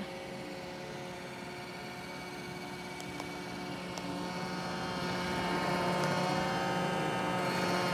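Roomba j7+ robot vacuum running: a steady motor hum with a whirring whine, getting louder over the second half.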